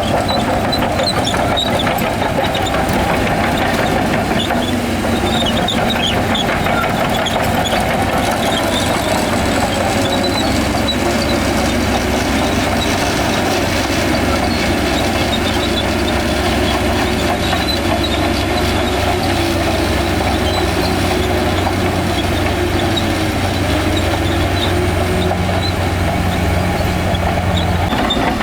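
Heavy diesel engines of earthmoving machinery running steadily on a sand-fill site. A low steady hum joins in about a third of the way through and drops away just before the end.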